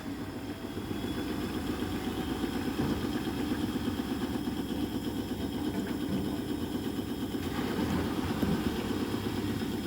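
Tor Space Pro washing machine on its spin cycle, the drum spinning with a steady mechanical noise and vibration. The load is unbalanced, so the machine shakes.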